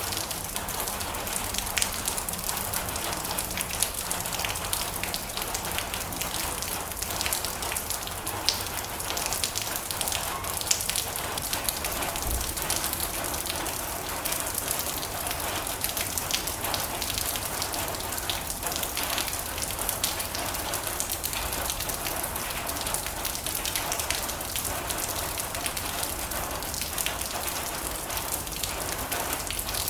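Steady heavy rain drumming on a metal roof, a dense patter of countless drop hits.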